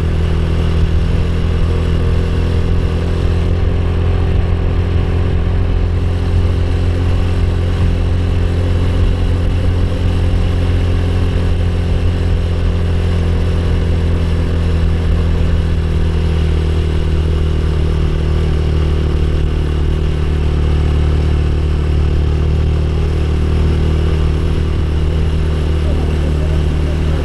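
Motorcycle engine running at a steady, nearly constant speed, heard from on the bike: a loud, even low drone.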